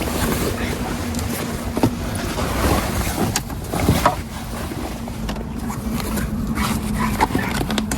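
Sea Ray 260 Sundeck's 300 hp Mercury engine running at a steady pitch under a haze of water and wind noise, with a few sharp knocks.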